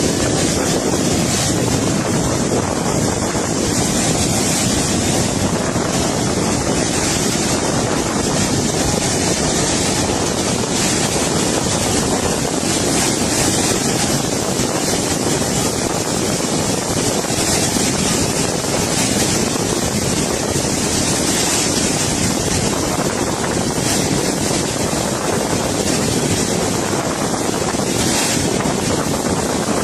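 Fast-flowing floodwater rushing steadily and loudly.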